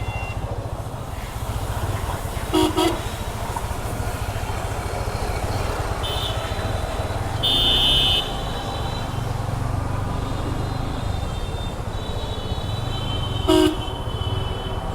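Vehicle horns honking in street traffic over a steady low rumble from a motorcycle on the move. There is a short double beep about three seconds in, a longer, louder honk about halfway through, and a sharp short honk near the end.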